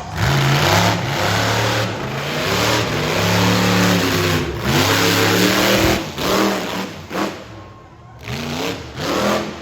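Monster truck engine revving hard in repeated bursts, its pitch climbing and falling, then dropping away about seven seconds in before a short rev near the end.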